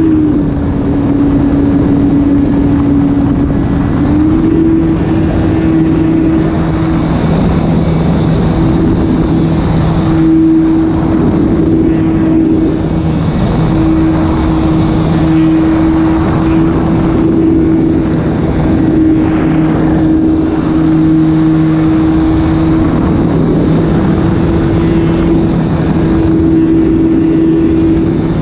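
Electric motor and propeller of an E-flite Carbon-Z Cub SS radio-controlled plane running steadily in flight: a held motor note over a rushing noise. The note rises slightly about four seconds in, then holds with small wavers as the throttle shifts.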